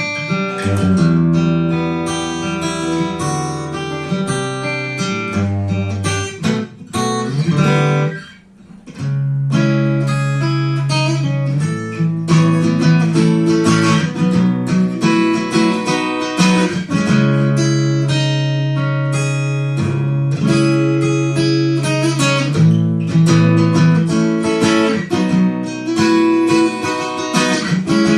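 Yamaha FGX730 acoustic-electric guitar played unaccompanied, with chords strummed and picked over ringing bass notes and a brief pause about eight seconds in.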